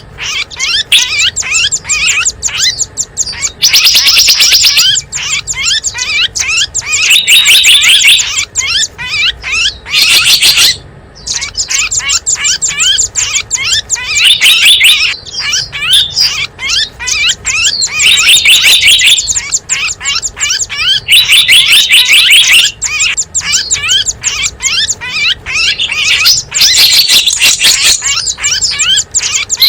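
Small wild birds chirping rapidly and without pause, with a louder dense trill bursting in every three to four seconds: a bird-lure call recording meant to draw in small birds.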